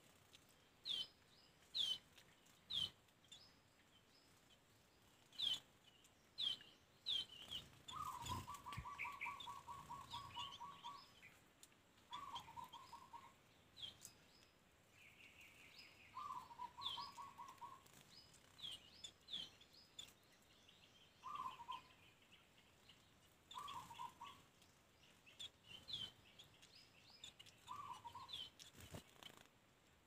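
Small wild birds calling: short, sharp high chirps, many sliding downward, scattered throughout, and a lower, rapid rattling trill that comes back every few seconds. The first and longest trill lasts about three seconds.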